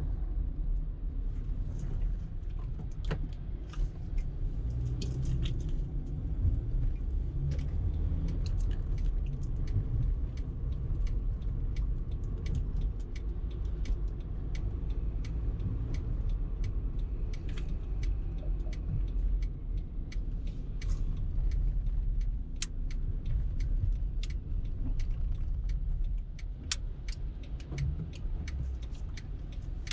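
A car driving in traffic, heard from inside the cabin: a steady low rumble of engine and road, with many small irregular clicks and rattles over it.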